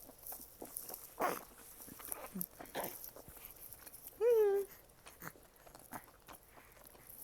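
Soft chewing and mouth clicks while eating, with one short high-pitched squeal about four seconds in that dips slightly in pitch, from the baby held on her lap.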